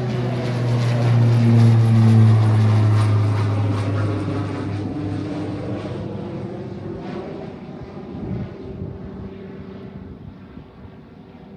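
Propeller aircraft passing on its takeoff climb, its engine drone loudest about two seconds in and then fading away.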